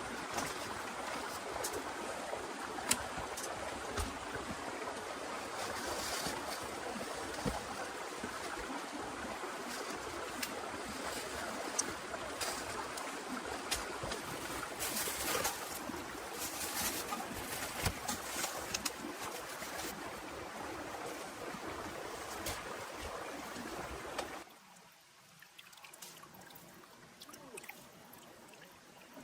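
Heavy rain falling: a steady rush of water with scattered sharp drip taps. Near the end it suddenly drops much quieter.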